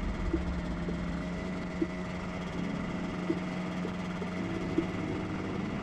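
ATV engine idling steadily, with a faint tick about every second and a half.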